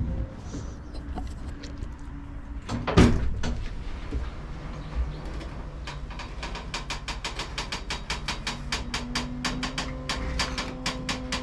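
A single sharp knock, then a fast, even run of mechanical clicks, about seven a second, over a faint steady whirr.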